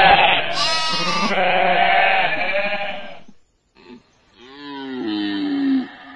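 Farm animals bleating, in two separate recordings: first a loud, dense stretch of overlapping calls that fades out after about three seconds, then, after a short gap, a single wavering bleat that falls in pitch.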